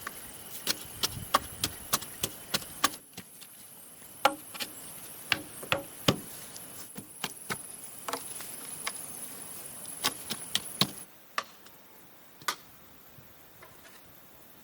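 Irregular sharp knocks of a hand tool striking bamboo, chopping or tapping, sometimes several a second. A steady high buzz of forest insects runs underneath and stops suddenly about 11 seconds in.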